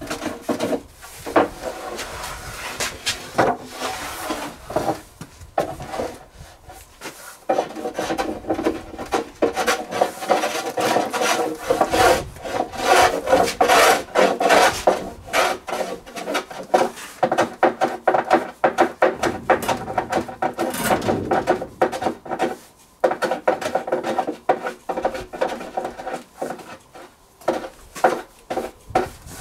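Wood being worked by hand with a rasping tool: quick, repeated scraping strokes with brief pauses.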